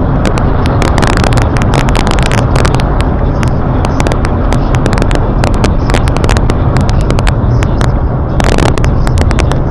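Loud, distorted noise of a moving car, with many sharp crackles throughout.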